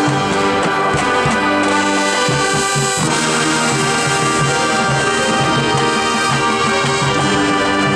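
High school marching band playing, brass section carrying sustained chords over a low pulse.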